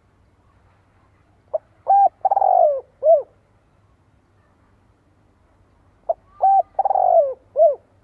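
Spotted dove giving its cooing song twice, about four and a half seconds apart; each phrase is a short note, a held note, a longer falling note and a short final note. It is a decoy bird's call, used to draw wild doves in.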